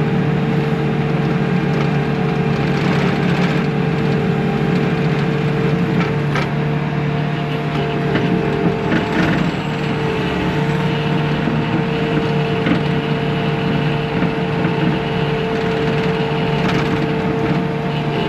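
Bobcat T630 skid steer's diesel engine running steadily at working speed, with a few faint knocks.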